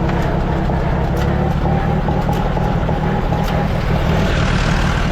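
1948 Allis-Chalmers C tractor's four-cylinder engine running steadily, turning a feed grinder by a flat belt from its belt pulley.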